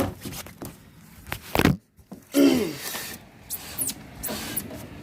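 Clicks, knocks and a heavier thump, with a short squeak, of a house window being unlatched and opened.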